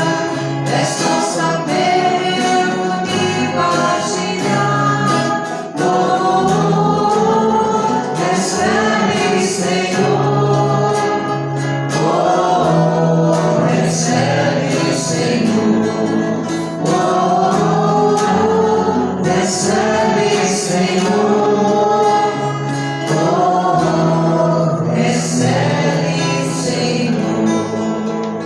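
Choir singing a church hymn with instrumental accompaniment, the voices moving in melodic phrases over sustained bass notes.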